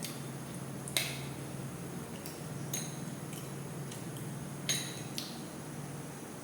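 Tableware clinking during a meal: a spoon or fingers knocking on a plate or bowl, about four sharp ringing clinks, the loudest about a second in and two close together near the end.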